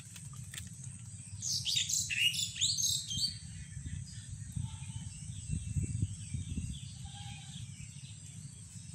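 A bird chirping: a quick run of high, falling chirps lasting under two seconds, over a low steady background rumble.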